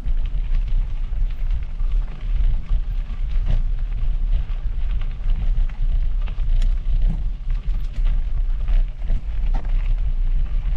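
Mountain bike riding noise picked up by a GoPro: a steady low rumble of wind and rolling over the trail, with scattered knocks and rattles from the bike.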